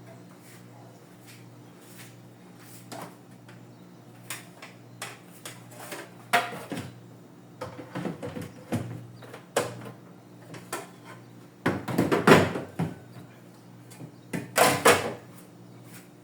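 Scattered knocks, clicks and clatter of objects being handled and set down, with the loudest clusters about twelve seconds in and again near fifteen seconds, over a faint steady hum.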